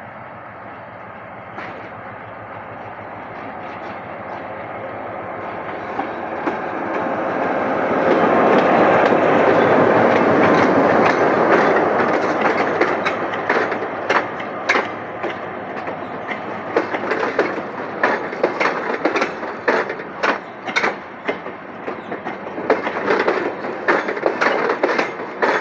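G22 diesel locomotive and its train approaching and passing close by, growing louder until its loudest stretch about 8 to 12 seconds in. After that the wheels of the following cars clack over the rail joints in quick repeated knocks.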